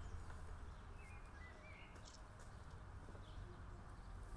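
Faint, scattered bird chirps, a few short high calls, over a steady low outdoor background rumble.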